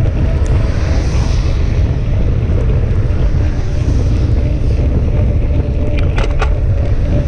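Strong headwind buffeting the microphone of a bicycle rider, a steady loud low rumble with a hiss over it, with a few short clicks about six seconds in.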